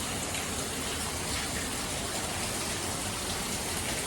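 Steady rushing of water flowing through a rocky canyon stream, an even hiss with no breaks.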